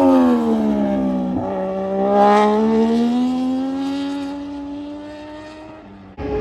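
Racing motorcycle engine at high revs. The pitch drops over the first second and a half, then rises through the revs as the bike accelerates away, fading as it goes, before the sound cuts off near the end.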